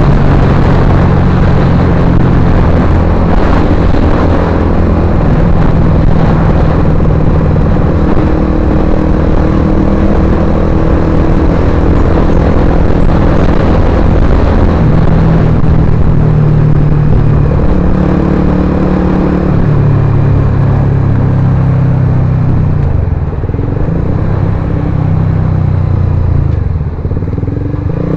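Suzuki GSX-R150's single-cylinder engine running through an aftermarket Akrapovic-style silencer, a loud, steady exhaust note that shifts pitch now and then. Near the end the pitch dips and recovers twice.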